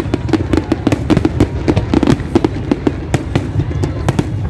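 Fireworks display: a dense, rapid string of sharp bangs and crackles, several a second, over a continuous low rumble.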